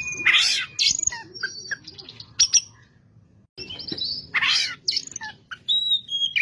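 Oriental magpie-robin singing a varied song of clear whistled notes and glides mixed with harsh, buzzy phrases, with a short pause about halfway through.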